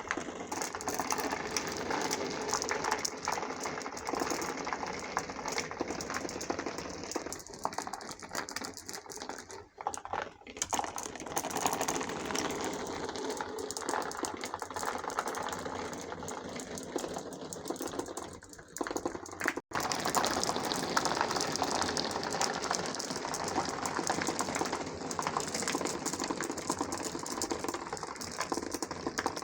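Many marbles rolling and clattering along a marble run's tracks: a dense, continuous stream of rapid small clicks and rattles. It breaks off briefly about ten seconds in and cuts out sharply just before twenty seconds, then resumes.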